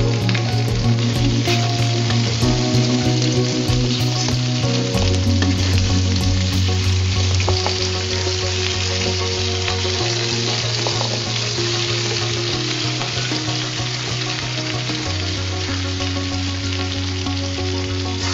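Sliced potatoes sizzling as they fry in a metal kadai, stirred with a wooden spatula, over soft background music.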